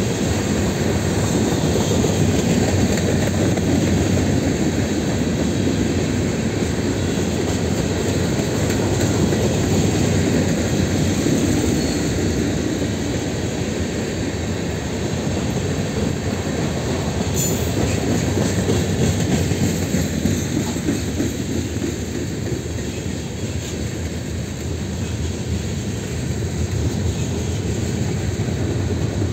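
Freight cars of a mixed train rolling past close by: a steady, continuous noise of steel wheels running on rail.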